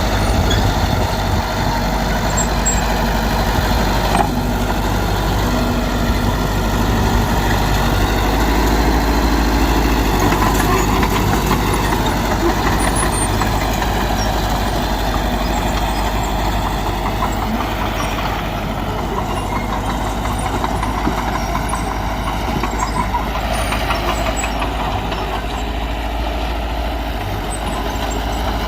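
Mitsubishi BD2G bulldozer's diesel engine running steadily under load as it works.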